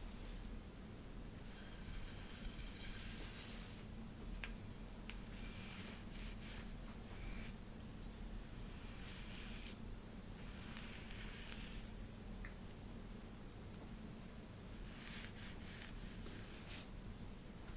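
Soft swishing strokes through hair, close to the microphone, in slow passes of a second or two with short pauses between them. There are a couple of faint clicks about four and five seconds in, over a low steady room hum.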